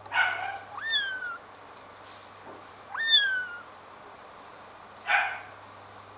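A young pet animal's high-pitched cries: a short harsh cry at the start, two long high calls about one and three seconds in that rise sharply and then slide slowly down, and another short cry about five seconds in.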